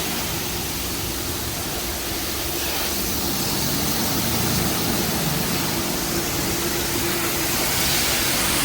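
LaserWash G5 touchless car wash spraying high-pressure water onto a car: a steady hiss of spray with a faint, even machine hum underneath.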